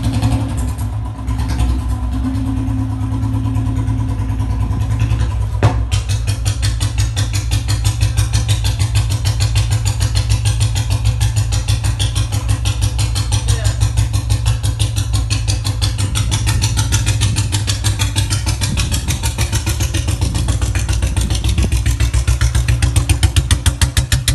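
Royal Enfield Bullet Standard BS6 single-cylinder engine idling through a modified long-bottle silencer and round-bend exhaust pipe, giving a steady, evenly spaced exhaust thump. There is a single sharp click about six seconds in, and the exhaust gets a little louder near the end.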